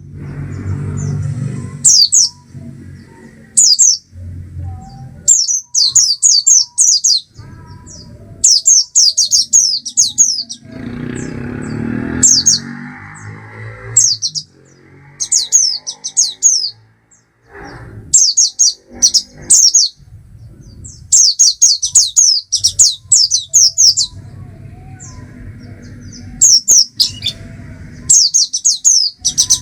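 Oriental white-eye singing: repeated bursts of quick, high, downward-sweeping chirps, each burst a second or two long, coming every few seconds over a low background rumble.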